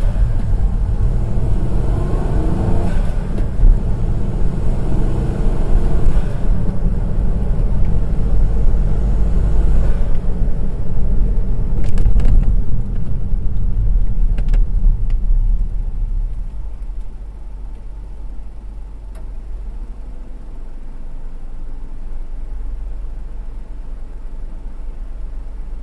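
Honda S660's small turbocharged three-cylinder engine pulling the car along a mountain road. About two-thirds of the way through the engine note drops away to a quieter steady run, with the car coasting or cruising.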